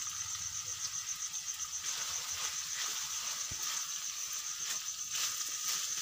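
Chopped okra and tomato pieces sizzling in hot oil in a steel kadai, a steady hiss, with a steel spoon scraping and clicking against the pan as the mixture is stirred.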